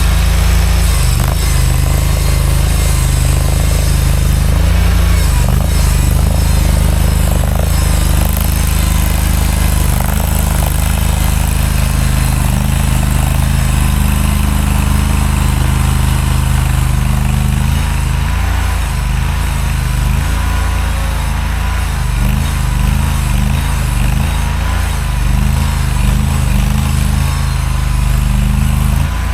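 Mini skid steer's engine running steadily under load, its pitch shifting a little now and then as the machine works.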